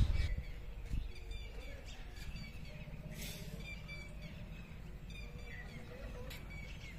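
Birds chirping in short scattered calls over quiet outdoor background sound.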